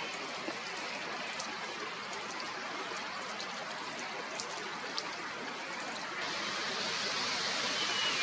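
Steady rushing hiss, like running water, that grows louder about six seconds in, with a few faint ticks. Right at the end a black kite begins its high, quavering whistled call.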